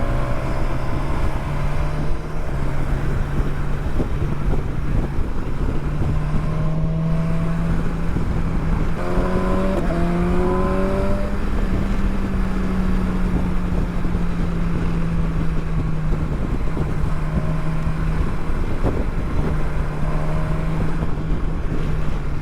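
Motorcycle engine running while riding, heard over a steady rush of wind. The engine note climbs about nine seconds in, then gradually eases off.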